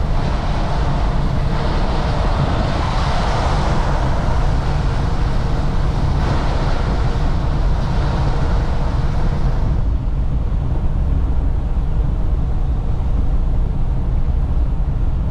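Semi truck heard from inside the cab while driving: a steady low engine and road drone, with a broad hiss of tyre and road noise that fades about ten seconds in.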